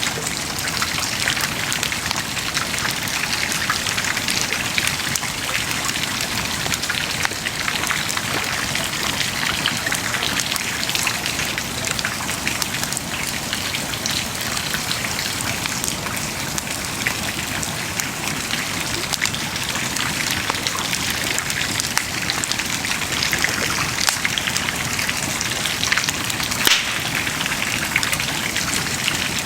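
Wood bonfire burning, a steady crackling hiss with many small pops and snaps all through, one pop a little louder near the end.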